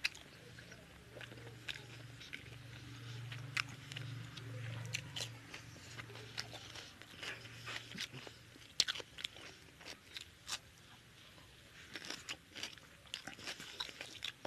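Close-up eating sounds of a man eating chicken curry and rice with his hand: wet chewing and mouth clicks with crunchy bites, busiest in the second half. A low steady hum runs through the first half.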